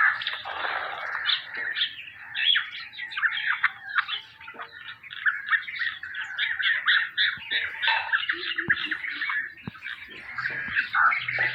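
A group of hungry nightingales chirping without pause in rapid, overlapping short calls, begging for food.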